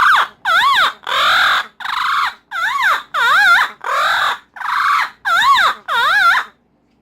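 Pet parrot screeching loudly in a string of about ten harsh calls, each wavering up and down in pitch, then falling silent near the end. The calls are agitated: the owner says the bird is mad and gets loud whenever he talks to his wife.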